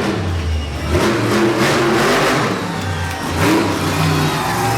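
Monster truck engine revving hard, its pitch rising and falling several times, with loud surges of exhaust noise.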